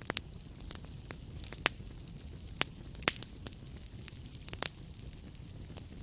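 Fire crackling in a fireplace: irregular sharp pops and snaps over a steady low rumble and hiss.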